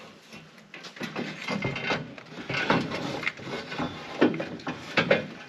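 Bubble wrap packaging being handled and pulled about, crinkling and rustling, with a few sharp knocks.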